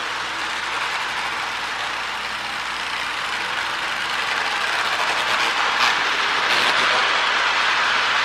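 Marx E7 toy train running on its track: the motor whirring and the wheels rattling on the rails in a steady hiss. It grows louder about halfway through as the train comes closer, with a single click near the end.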